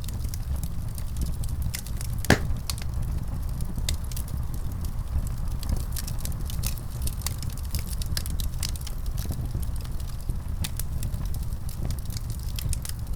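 Wood fire burning in a fireplace: a steady low rumble under irregular sharp crackles and pops, with one louder pop about two seconds in.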